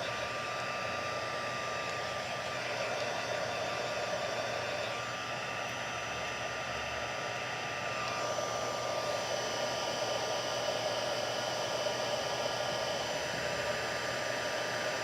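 Embossing heat tool running steadily, a continuous blowing whir, melting white embossing powder on a stamped sentiment.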